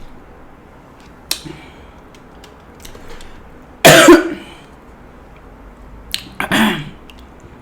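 Close-miked eating sounds from a steamed king crab: a small crack about a second in, then two louder, noisy bursts about four and six and a half seconds in.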